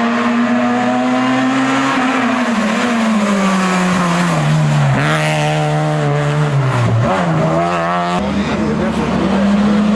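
Historic rally car engine running hard on a special stage. Its pitch sinks over several seconds as the car slows, then jumps back up about eight seconds in and climbs again as it accelerates.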